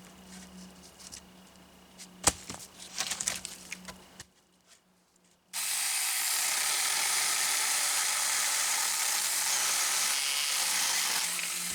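Small clicks and one sharp click about two seconds in, a short near-silence, then from about five and a half seconds in a Saker mini cordless electric chainsaw cutting steadily through wood, dying away near the end.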